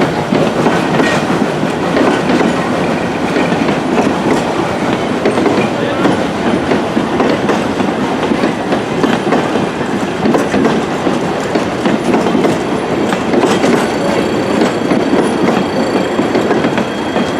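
Train rolling along the track: a steady loud rumble with the clatter of wheels over the rails throughout.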